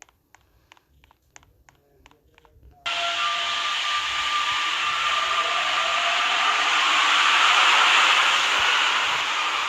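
Faint ticking about four times a second, then, about three seconds in, a Santiago Metro NS-93 train starts up abruptly: a loud rushing hiss with a motor whine slowly rising in pitch as it gains speed.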